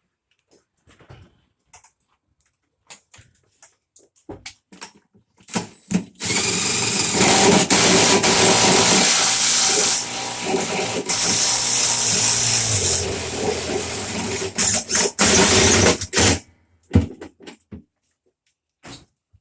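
Power drill running in a long stretch of about ten seconds, its speed and load shifting several times, with knocks and clatter of tools and parts before and after.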